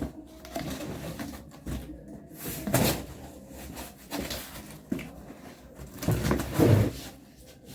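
Cardboard being cut and handled with a small serrated knife: irregular scraping and rustling with knocks, a sharp scrape about three seconds in and a heavier bump a little after six seconds.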